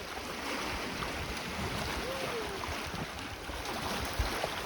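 Steady wash of lake water lapping against shoreline rocks, mixed with wind buffeting the microphone in uneven low rumbles.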